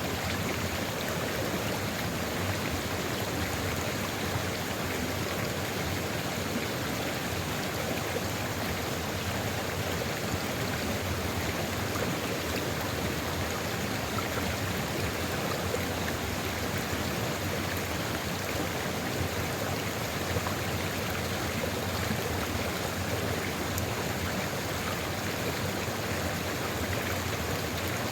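Sulfur river flowing: steady rushing and burbling of running water.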